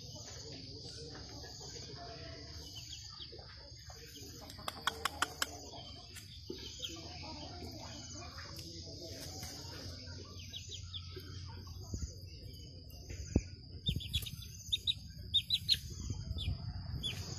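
Short high bird chirps, several in quick succession near the end, over a steady high insect drone. A few sharp clicks come about five seconds in.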